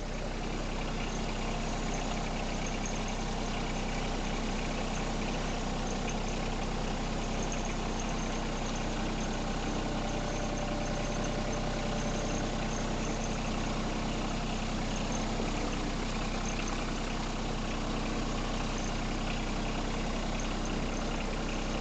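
Front-end loader's engine running steadily at an even speed while travelling.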